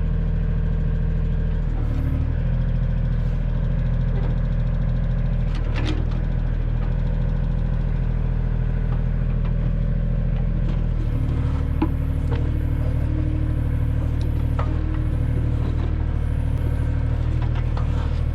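Kioti tractor's diesel engine running steadily under load while its backhoe digs, with scattered metal clanks from the bucket and linkage. About eleven seconds in, the engine note shifts as the load changes.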